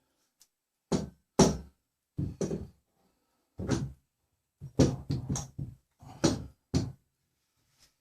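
A series of irregular knocks and clunks, wood and metal being handled and struck while bolting timber supports together, with a quick cluster of hits about halfway through.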